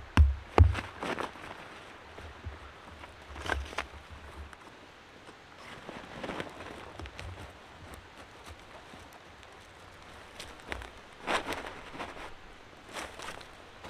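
A beat from electronic music ends about half a second in. After that come scattered, short rustling and crunching sounds with gaps between them, a few louder clusters near the middle and near the end.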